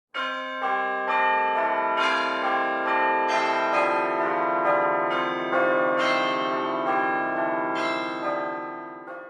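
Bell-like chiming music: struck notes ringing on and overlapping one another, starting and cutting off abruptly.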